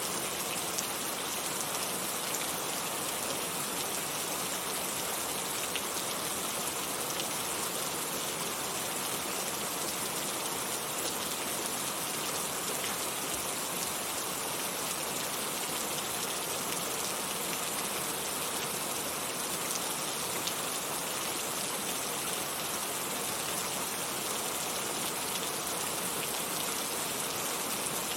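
Heavy rain falling steadily: a constant dense hiss with fine scattered drop patter.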